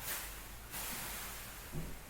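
Something being rubbed over a surface by hand: a soft rustling hiss, strongest for about the first half second and quieter after.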